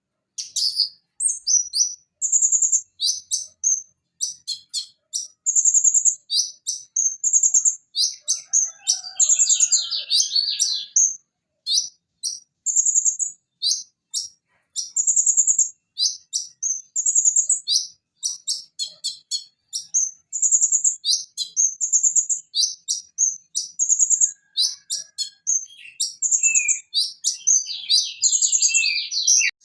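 Van Hasselt's sunbird (purple-throated sunbird, konin) singing a fast, varied stream of high chirps and trills, starting suddenly after silence and running on in quick runs with short gaps.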